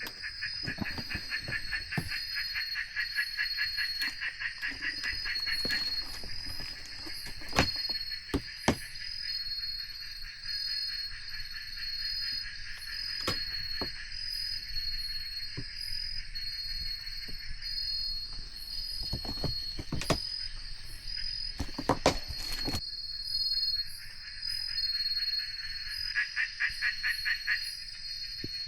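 Chorus of insects and frogs: a steady high insect trill with a rapid pulsing trill beneath it, strong at first, fading, and coming back near the end. A few sharp clicks or knocks break in, four of them standing out.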